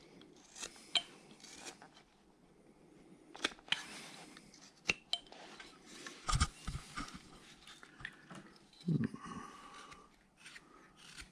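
Carving knife cutting into a wooden figure by hand: faint scraping slices and sharp little clicks at irregular intervals as the blade bites and pops out chips.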